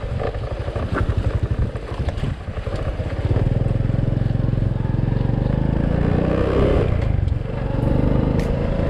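Motorcycle engine running steadily while riding on the road, its pulsing low note steadier from about a third of the way in.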